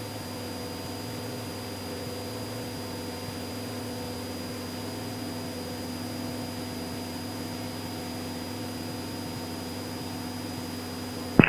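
Cessna 172SP's four-cylinder Lycoming engine and propeller at full power in the climb just after takeoff, a steady, unchanging cockpit drone with a thin high whine over it.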